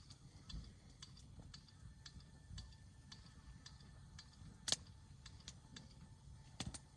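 Hardwood campfire crackling: scattered small pops and ticks at irregular intervals, with one sharp crack about two-thirds of the way through and two quick cracks near the end.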